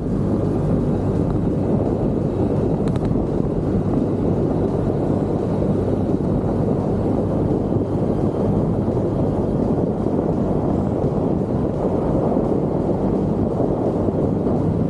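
Steady wind rush on the microphone over a Genuine Buddy 170i scooter's engine running at a constant pace while riding, with no change in speed.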